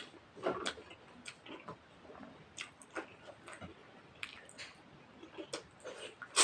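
Close-up eating sounds: irregular wet clicks and smacks of someone chewing a mouthful of rice and mutton curry, a few times a second, with one louder smack near the end.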